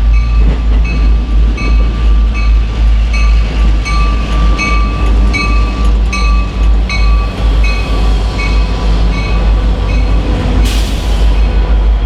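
A train running past a grade crossing: the crossing bell rings about twice a second over a heavy, pulsing low rumble. A short burst of hiss comes near the end.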